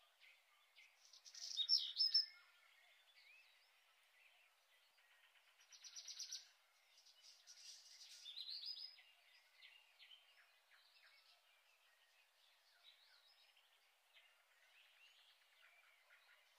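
Faint birdsong: small birds chirping and calling. The loudest chirp phrases come a second or two in, a quick trill comes about six seconds in, and softer scattered chirps carry on after that.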